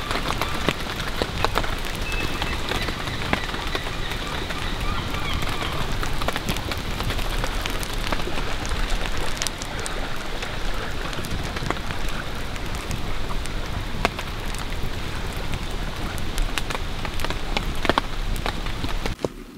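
Steady rain falling on leaves and ground, with many separate drops ticking through it.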